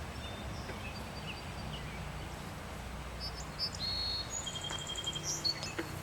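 Small birds chirping and whistling outdoors over a steady low background rumble, the calls coming thickest in the second half.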